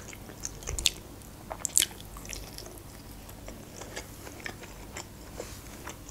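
Close-miked chewing of grilled chicken eaten by hand: scattered mouth clicks, two of them sharper in the first two seconds.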